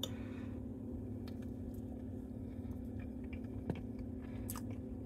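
A person chewing a bite of soft sweet potato pie: small, scattered mouth clicks over a steady low hum.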